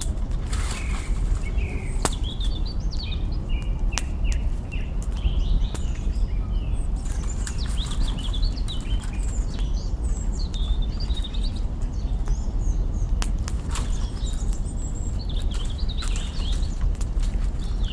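Campfire crackling, with a few sharp pops of burning twigs over a steady low rumble, while small birds twitter and chirp throughout.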